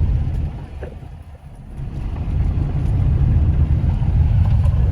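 Car driving on a dirt road: a steady low rumble of tyres and engine that fades sharply about half a second in and comes back about two seconds in.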